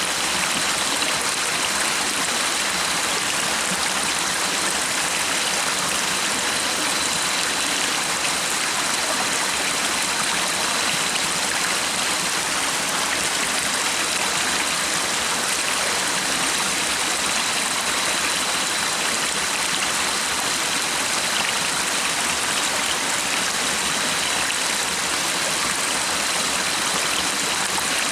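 A stream of water flowing with a steady, unbroken rush. A faint thin high tone sits over it.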